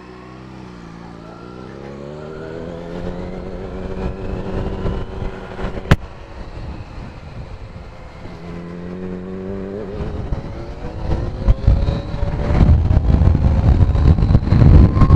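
Kawasaki Z900 inline-four pulling away and accelerating, its pitch rising through one gear, a sharp click about six seconds in, then rising again in the next gear. Heavy wind rumble on the microphone builds over the last few seconds as speed rises.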